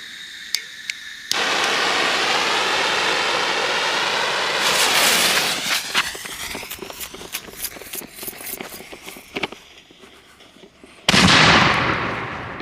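Artillery shell firework going off: a sudden rushing hiss about a second in that lasts a few seconds, then a run of scattered crackling pops that thin out, then a loud bang near the end that dies away slowly.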